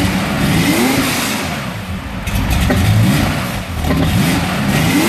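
Freshly installed air-cooled flat-six engine of a 1975 Porsche 911S on its first run, revved up and back down several times, the pitch rising and falling with each blip. Its Motec engine management has not yet been tuned.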